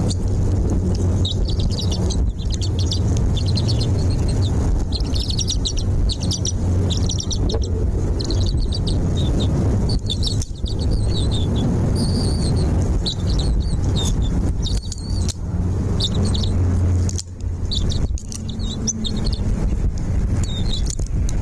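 Small birds chirping in many quick, high chirps and short trills, over a steady low rumble.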